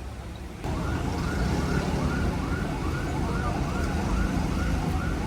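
Emergency vehicle siren in a rapid yelp, two or three rising and falling sweeps a second, cutting in suddenly under a second in, over a low engine rumble.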